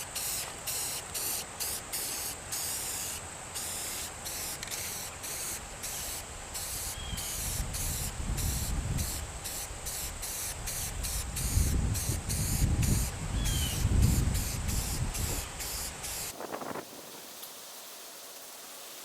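Aerosol spray-paint can hissing in short, repeated bursts as camouflage is sprayed onto plywood, with a low gusty rumble of wind on the microphone in the middle; the spraying stops near the end.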